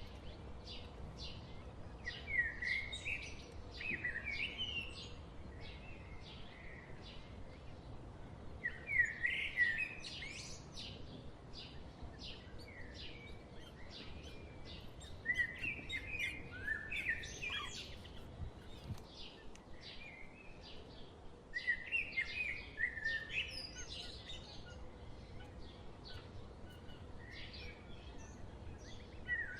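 A songbird singing a short warbling phrase about every six seconds, five times over, against a steady patter of short high chirps from other small birds.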